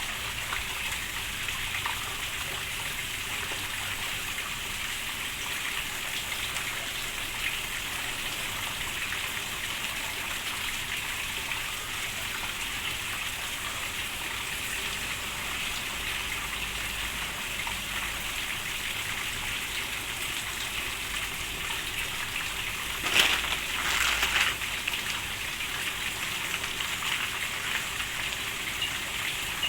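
Steady rain falling, a continuous even hiss, with a brief louder burst a little past three-quarters of the way through.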